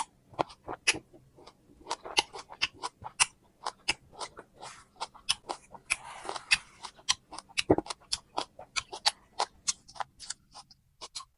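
Close-up chewing of a firm, crunchy unripe sour plum: a run of irregular crisp crunches, about three or four a second.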